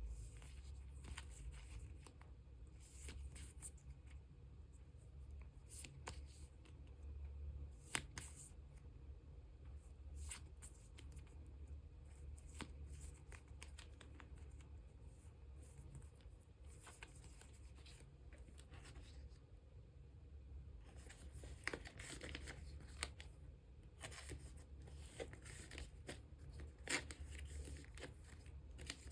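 Faint handling of photocards and plastic sleeves: scattered soft crinkles, slides and small taps, irregular and with no rhythm, over a low steady hum.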